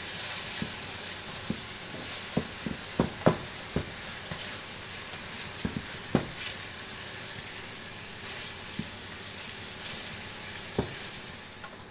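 Sliced vegetables sizzling as they sauté in butter in a stainless steel pan, with a steady frying hiss. A stirring utensil knocks against the pan about ten times.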